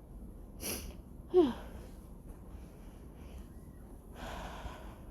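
A person breathing hard: a sharp breath, then a short grunt falling in pitch about a second and a half in, the loudest sound, and a longer breath out near the end.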